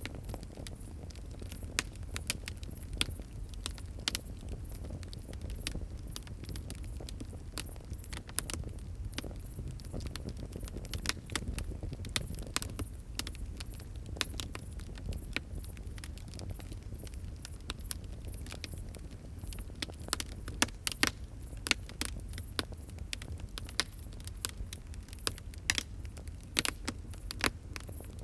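Fire crackling: irregular sharp pops and snaps over a low steady rumble, with the loudest pops clustered a little past the middle.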